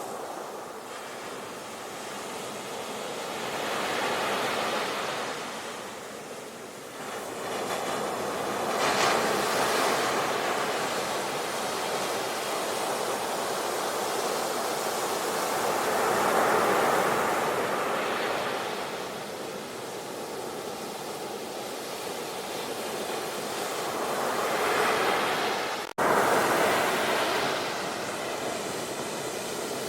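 Ocean waves breaking and washing ashore, the surf swelling and ebbing every few seconds. The sound cuts out abruptly for an instant about 26 seconds in, then resumes.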